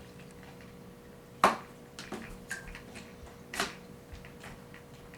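Hard plastic parts of a Hoover FloorMate floor cleaner clicking and knocking as a part is fitted on. A sharp click about a second and a half in is the loudest, followed by a few lighter clicks, over a faint steady hum.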